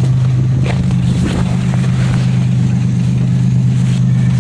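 A car engine running at a steady idle, with a couple of light clicks about a second in.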